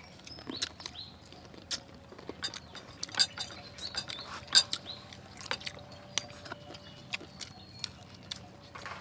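Several people chewing crispy fried chicken, with many short, sharp crunches and mouth clicks at an irregular pace.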